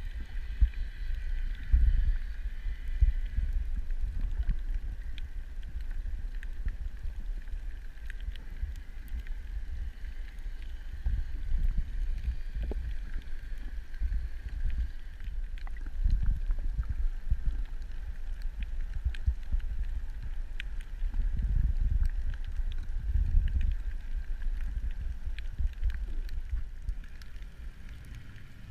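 Underwater sound recorded by a diving camera: a low rumbling water noise that swells and fades, a steady high-pitched hum, and scattered faint clicks.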